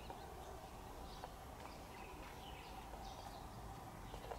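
Quiet village ambience with a small bird chirping again and again in short calls, and a few faint ticks now and then.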